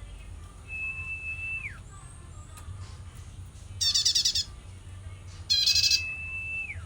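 A pet prenjak (prinia) calling: two loud bursts of rapid, harsh chattering notes about a second and a half apart. Twice there is also a long, steady whistled note that drops in pitch at the end.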